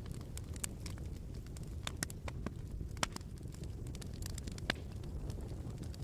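Wood fire crackling in a fireplace: scattered sharp pops and snaps over a steady low rumble, with one louder pop about three seconds in.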